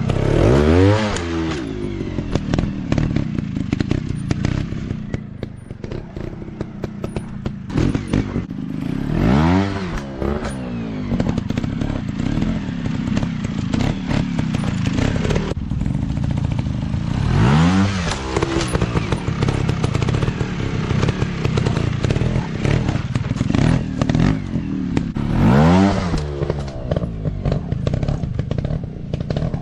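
Dirt bike engines running with a steady low rumble, revving up sharply and dropping back four times, about every eight seconds.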